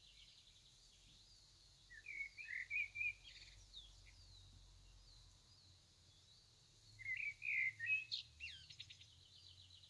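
Small bird chirping in two quick bursts of short twittering notes, about two seconds in and again about seven seconds in, faint against a quiet room.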